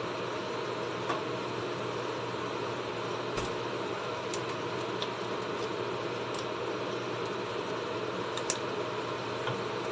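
Blended onion, garlic, ginger and chilli paste sizzling in oil in a frying pan: a steady hiss with scattered small pops and crackles.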